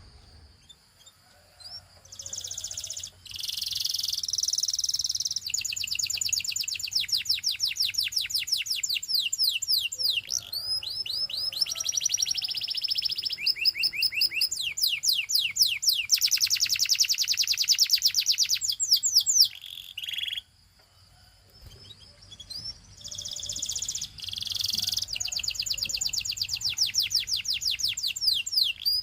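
Canary singing: long rolls of rapidly repeated high, sweeping notes that change from phrase to phrase. The song pauses at the start and again about two-thirds of the way through.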